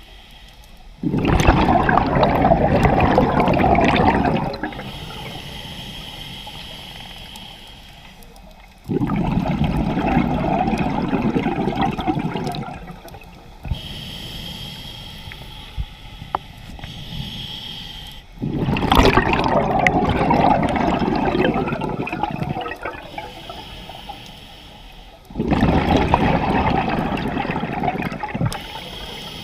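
Scuba diver breathing through a regulator underwater: four loud gushes of exhaled bubbles, roughly every seven to eight seconds, with a quieter hiss of inhaling between them.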